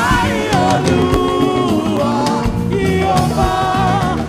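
Live gospel worship music: a singing voice over a band with steady percussion.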